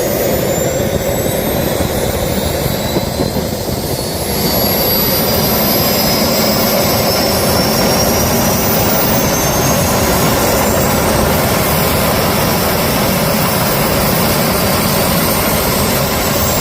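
Jet engine running on a test start, a steady roar with a high turbine whine. About four seconds in it gets louder and the whine climbs slowly in pitch as the engine speeds up.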